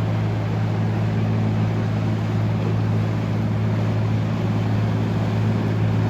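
Motorboat engine running as a boat passes through the inlet: a low, steady drone with a hiss over it.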